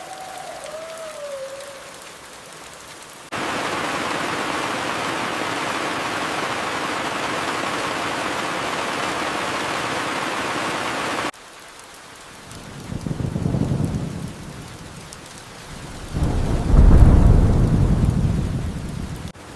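Rain falling, with a louder stretch of heavy downpour that starts and stops abruptly in the first half. Then two rumbles of thunder: a smaller one in the middle and a louder, deeper one near the end.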